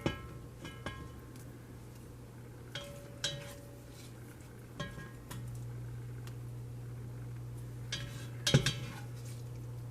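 Metal spatula knocking and scraping in a frying pan while cooked chicken is scooped out, some knocks ringing briefly, the loudest near the end. A steady low hum runs underneath and gets louder about five seconds in.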